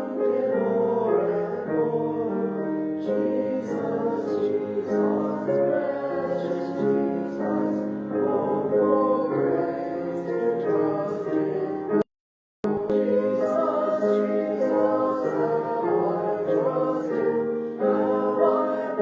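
A congregation singing a hymn with instrumental accompaniment. The sound cuts out completely for about half a second roughly two-thirds of the way through.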